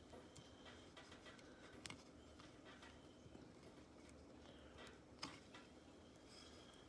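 Near silence, with a few faint, scattered clicks and light taps.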